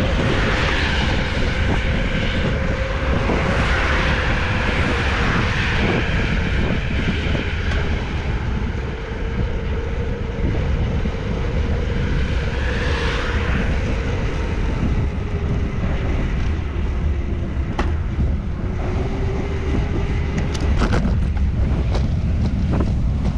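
Wind rumbling on the microphone of a moving bicycle, with road traffic swelling and fading past a few times.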